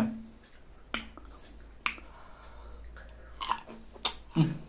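Crisp bites into a raw Indian jujube (boroi) fruit, then crunchy chewing: two sharp crunches about a second apart, then a few more as the fruit is chewed. A brief hum near the end.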